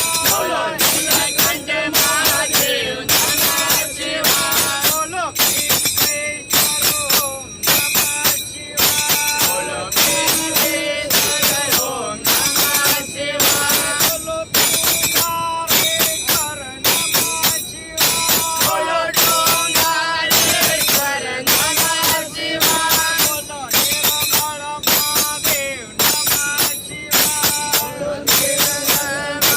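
Devotional bhajan sung by a group of commuters, with jingling hand percussion keeping a quick steady beat.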